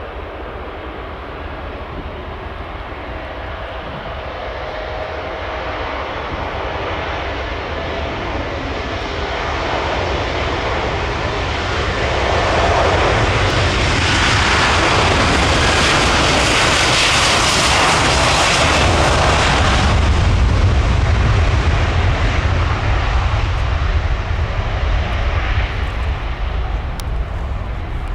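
Airbus A330-200 freighter's two Rolls-Royce Trent 700 turbofans at takeoff power. The jet noise swells steadily to its loudest in the middle with a bright hiss, then gives way to a deep low rumble that slowly eases as the aircraft moves away.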